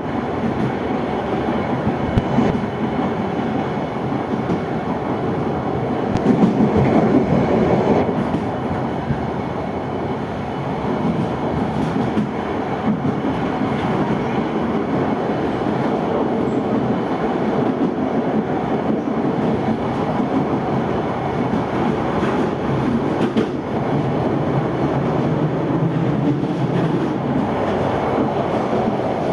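Passenger train running on the rails, heard from the rear coach: a steady rumble of wheels on track with occasional sharp clicks, swelling louder for about two seconds some six seconds in.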